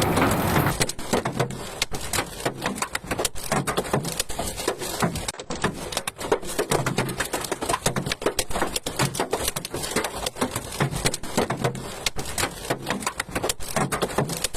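Dense, irregular pattering of hailstones striking a hard surface, heavier for the first second or so and then a steady rapid clatter.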